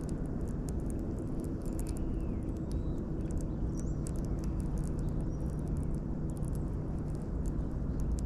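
Outdoor creek ambience: a steady low rumble, with scattered faint ticks and a few faint bird chirps a few seconds in.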